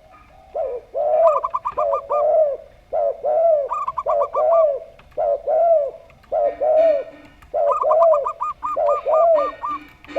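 Doves cooing: a zebra dove and a spotted dove calling together. Runs of quick, short higher notes several times over, mixed with repeated lower arched coos.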